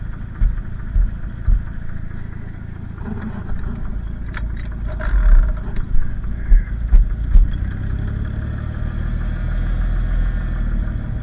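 Minneapolis Moline G900 LP tractor's propane engine running at low idle, with several sharp clicks a few seconds in and the engine note growing louder in the second half.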